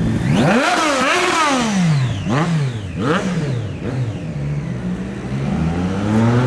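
Lamborghini Aventador SV's V12 revved hard several times. It gives one long rise and fall, then two quick blips, settles briefly at a low steady idle, and climbs again near the end.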